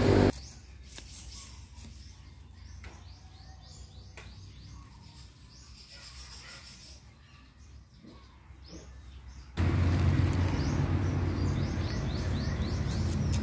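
Small birds chirping over and over in a quiet garden, with a few faint clicks and scrapes of soil being worked by hand. About nine and a half seconds in, a much louder steady noise starts suddenly and covers the chirps.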